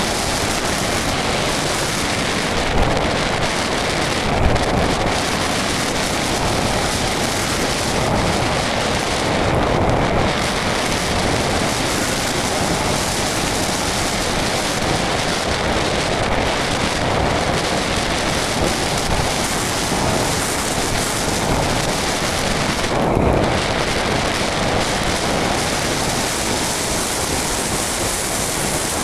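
Steady, loud rushing of wind over the microphone of a small camera carried aloft on an RC model plane in flight.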